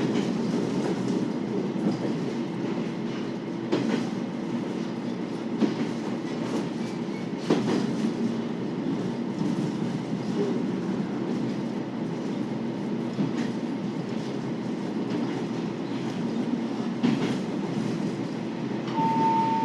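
KiHa 40 series diesel railcar running along the line: a steady diesel engine drone under the rumble of the wheels, with wheel clicks over rail joints every couple of seconds. A short tone sounds near the end.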